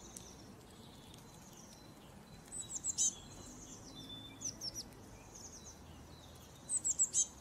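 Birds chirping: short runs of quick high chirps, loudest about three seconds in and again near the end, over a faint steady hiss.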